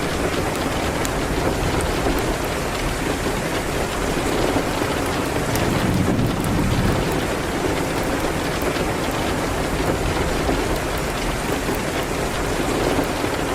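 Steady rain hitting a window, an even hiss over a low rumble, with scattered faint ticks throughout.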